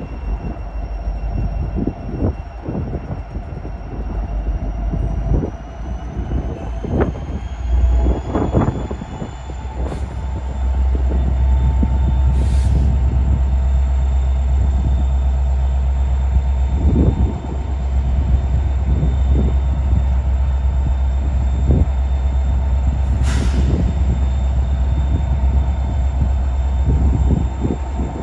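BNSF diesel-electric locomotives approaching at the head of a coal train: a low engine rumble that grows louder about ten seconds in and holds, with a thin steady high squeal over it and scattered low thumps.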